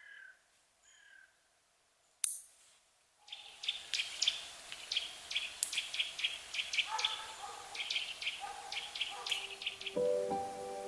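A sharp click about two seconds in, then a chorus of songbirds with many quick, high chirps. Near the end, gentle music with held notes comes in.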